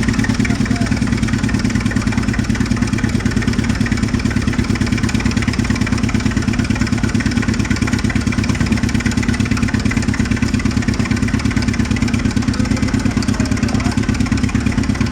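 Old engine-driven air compressor running hard, with a steady, fast, even thumping beat.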